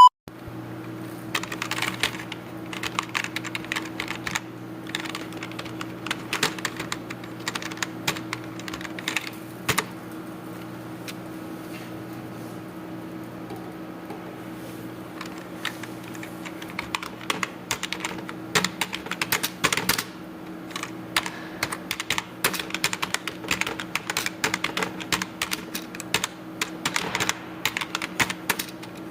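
Computer keyboard being typed on in irregular runs of keystrokes, thinning out for several seconds in the middle, over a steady low hum.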